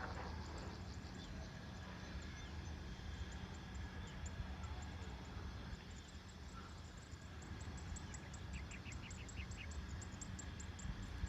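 Outdoor ambience: a steady low rumble under repeated high-pitched chirping. A short run of quick chirps comes about nine seconds in.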